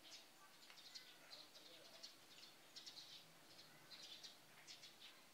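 Faint chirping of small birds: short, high chirps repeated irregularly, a couple a second, over a quiet background hiss.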